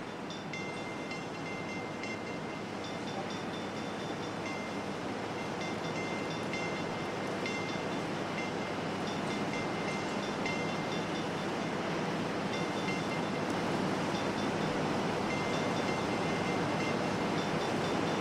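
Ambient electronic music: a dense rushing noise wash under high, thin sustained tones that cut in and out in a repeating pattern, slowly growing louder.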